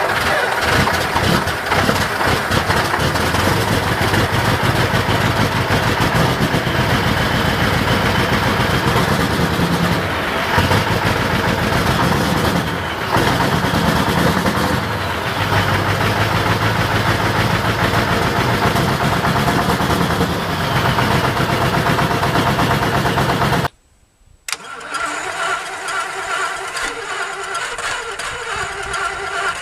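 Large diesel engine running loudly just after a cold start. About 24 seconds in it cuts off abruptly, and after a moment's silence a second diesel engine is heard running, quieter and steadier.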